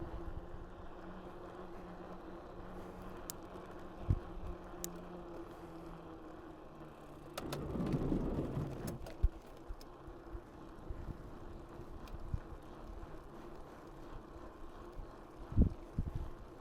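Mountain bike riding along a path: tyres rolling with a steady low hum, a few sharp knocks over bumps, and a louder rush for about a second and a half a little over seven seconds in.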